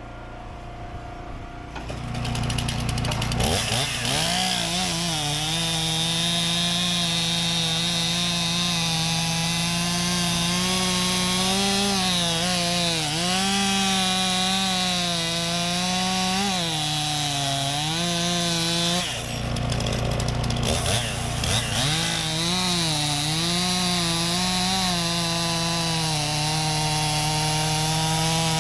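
STIHL two-stroke chainsaw revving up about two seconds in and cutting logs at full throttle, its engine pitch dipping repeatedly as the chain loads in the wood. Around two-thirds of the way through it drops off for a moment, then revs back up and keeps cutting.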